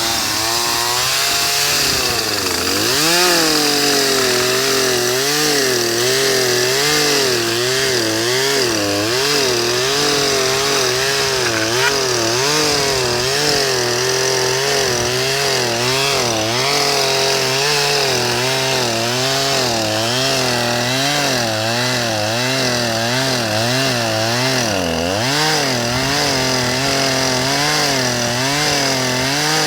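A two-stroke chainsaw running continuously, its engine speed wavering up and down in a quick, even wobble and sagging briefly about 25 seconds in: a barely working saw that won't hold steady revs.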